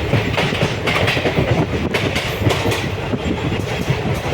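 Train running along the track: a steady rumble with wheels clattering over the rails.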